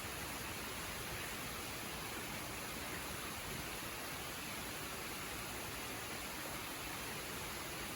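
Waterfall's steady rush of falling water, an even hiss that does not change.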